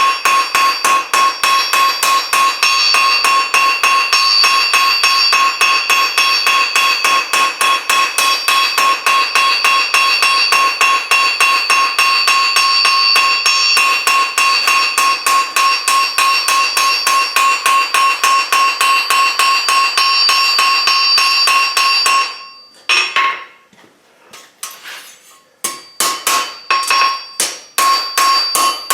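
Hand hammer striking the outside edge of a mild-steel scroll on the anvil: rapid, steady blows with the anvil ringing, tapering the edge so the metal spreads and curls the scroll around. The hammering stops a little after two-thirds through, then a few separate blows follow near the end.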